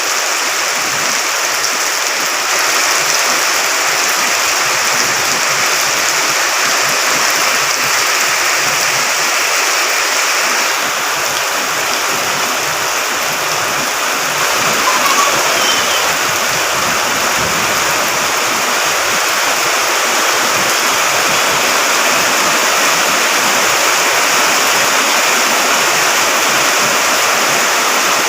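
Loud, steady rushing of water, the flow swollen by continuous rain.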